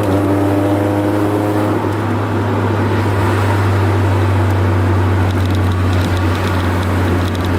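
Honda F22B1 2.2-litre SOHC VTEC four-cylinder engine running, heard from inside the Accord Maestro's cabin as a steady low drone. A steady pitched tone sits over it for the first couple of seconds.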